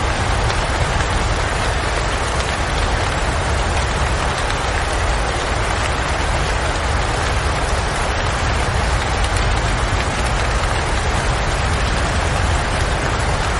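Steady, continuous rain noise with a deep low rumble underneath, even throughout with no separate drops or events standing out.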